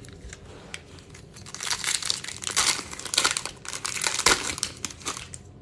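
Plastic-foil wrapper of a Bowman baseball card pack crinkling and tearing as it is opened by hand, a dense crackle from about a second and a half in until shortly before the end.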